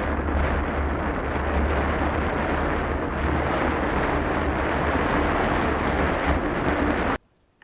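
A vehicle driving: a steady low rumble with wind buffeting the microphone. It starts abruptly and cuts off sharply about seven seconds in.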